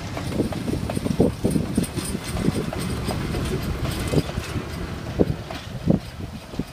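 Train running past with a steady low rumble and irregular knocks and clatter.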